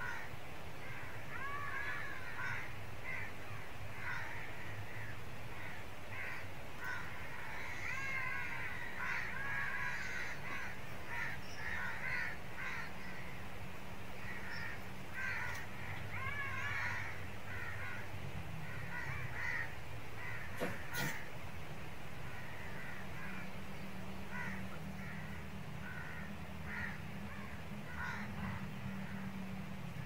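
Birds calling: many short calls repeat throughout, some with stacked, arching notes. A low steady hum runs underneath, and one sharp click comes about two-thirds of the way through.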